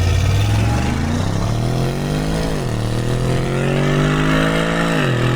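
Car engine accelerating hard through the gears: the engine note climbs, drops sharply at a gear change about two and a half seconds in, climbs again and drops at a second shift near the end.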